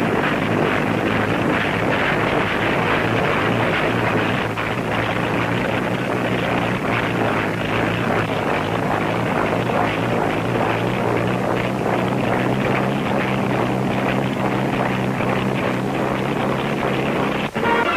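An engine-driven flying machine running steadily, with a dense propeller rush over a low engine hum, heard on a muffled old film soundtrack. The sound cuts off sharply near the end.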